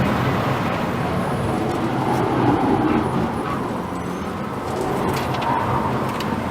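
A car driving: a steady rushing rumble without a clear engine note.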